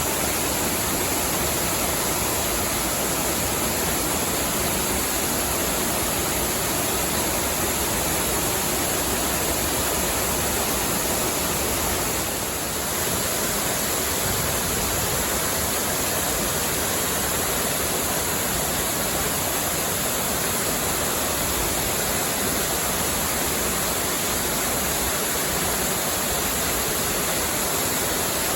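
Waterfall pouring, a steady rushing of water with a brief slight dip about halfway through.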